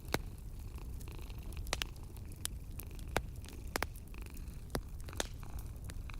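Wood fire crackling, with irregular sharp pops about once or twice a second, over a steady low rumble of a cat purring.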